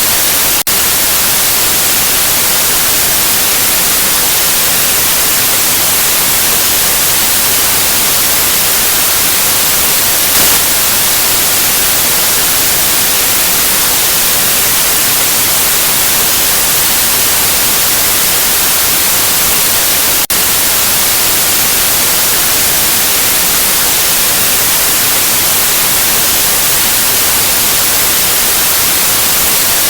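Steady white noise: an even, loud hiss across the whole range, strongest in the highs. It dips for an instant twice, about a second in and again about two-thirds of the way through.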